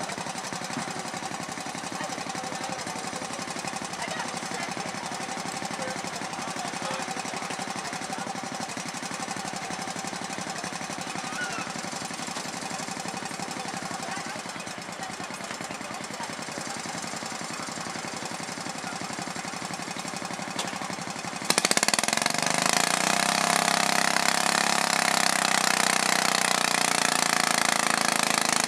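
Garden pulling tractor engine running steadily, then about three-quarters of the way through it suddenly gets much louder and its pitch sags and then recovers, like an engine worked hard on a pull.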